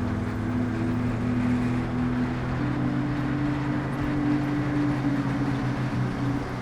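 Car engine running steadily, heard close from the bonnet, over continuous road and wind noise; its pitch steps up slightly about two and a half seconds in.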